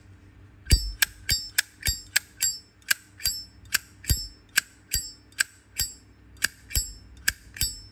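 Zippo lighter being worked in the hand: a steady run of sharp metallic clinks, about three a second, each with a brief bright ring.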